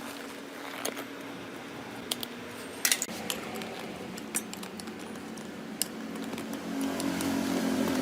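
Small metal parts or tools clinking sharply several times over a steady low hum, which grows louder near the end.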